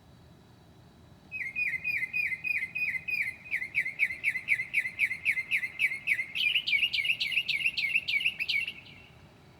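Northern mockingbird singing a rapid run of repeated down-slurred whistled notes, about four a second. About two-thirds of the way through, the bird switches to a higher, sweeping note type before stopping short of the end.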